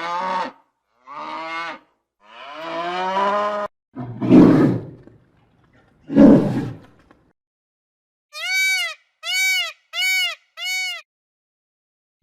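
A run of separate animal calls: three drawn-out calls that fall in pitch, two short rough roars about four and six seconds in, then four identical short high-pitched calls evenly spaced near the end.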